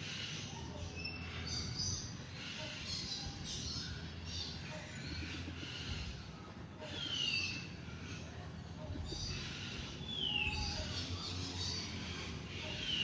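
Several wild birds chirping and singing together, with one clear whistled note sliding downward in pitch, repeated about every three seconds.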